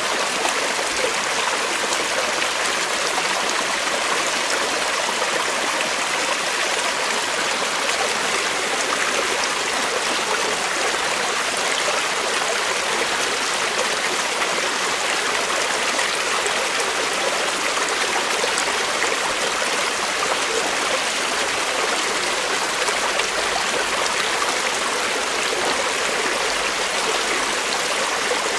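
Creek water flowing steadily over stones, an even rushing and trickling that does not change.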